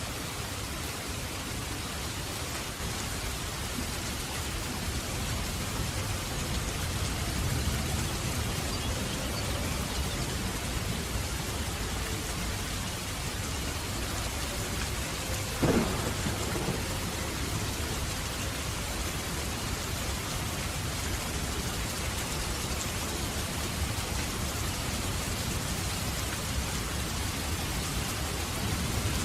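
Steady rain of a thunderstorm with low rolling thunder underneath, and one sharp crack about halfway through.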